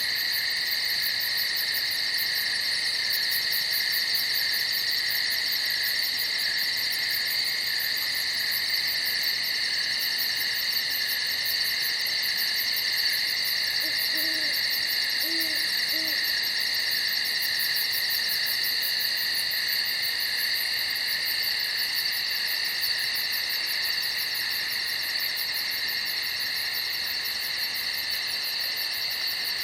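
Night chorus of crickets chirping in a continuous high-pitched trill. Three faint short low calls come around the middle.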